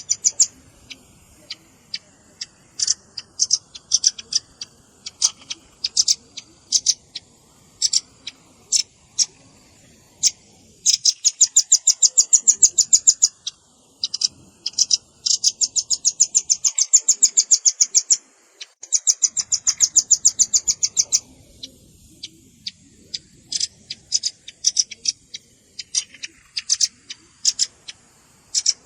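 Velvet-fronted nuthatch calls: sharp, high chips, some single and scattered, others in fast rattling trills of about ten notes a second that last two to three seconds. This is a lure-call recording that mixes adult and young birds' calls.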